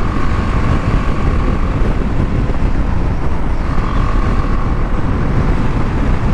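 Wind rushing over the microphone while riding, with the BMW G 310 GS's single-cylinder engine running underneath. A faint steady whine fades out about a second and a half in and comes back for a second near the middle.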